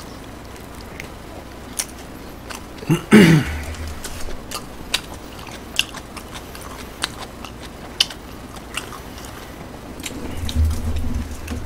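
Close-miked chewing of a burger: scattered crisp clicks and wet mouth sounds, with a short hum about three seconds in.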